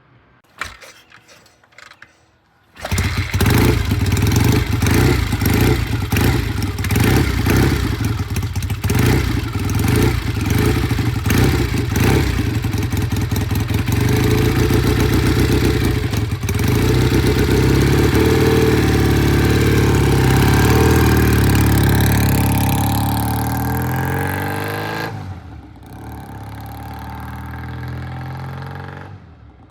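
BSA A65 Lightning's 650 cc parallel-twin engine starting about three seconds in, running unevenly with throttle blips for several seconds, then holding a steady higher speed before dropping away near the end. It starts readily now that its pilot jets are cleaned and its idle mixture and idle speed are set.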